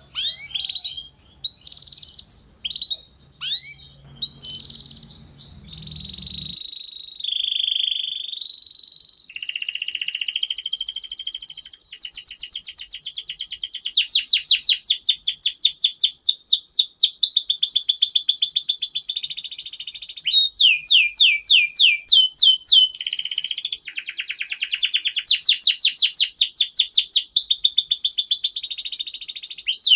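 Domestic canary singing a long unbroken song of rapid rolling trills, with held whistled notes and downward-sweeping notes between them. A low hum underneath stops about six seconds in.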